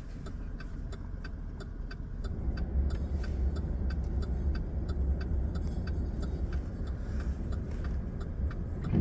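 Low engine and road rumble inside a vehicle cabin, growing louder a couple of seconds in as the vehicle gets moving, with the indicator relay ticking steadily throughout.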